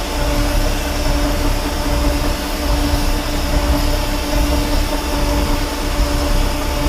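Large metal lathe running steadily, with a constant hum over a noisy hiss.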